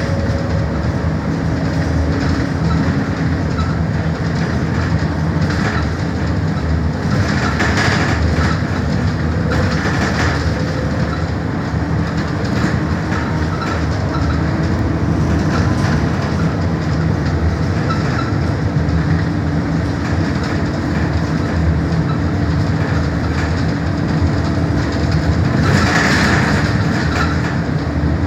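MAN Lion's City city bus driving, heard from inside at the front: a steady engine drone and road rumble, with short rattles now and then.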